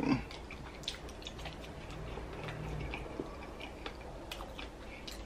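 Close-miked chewing of a sauce-coated boiled potato: wet, irregular mouth clicks and smacks.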